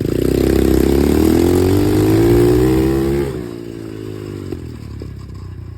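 Dirt bike engine opened up under throttle, its pitch climbing steadily for about three seconds before the throttle is eased and it drops back to a lower, quieter running note.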